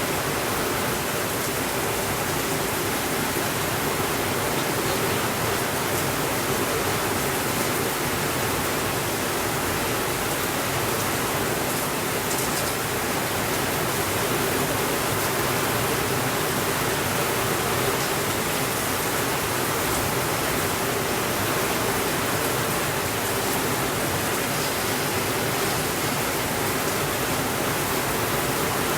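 Steady rainfall, a dense, even hiss that never changes in level, with a few faint high clicks now and then.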